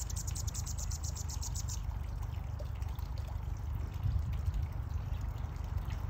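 A small bird gives a rapid run of high, evenly spaced chip notes, about ten a second, for the first two seconds. A steady low rumble runs underneath.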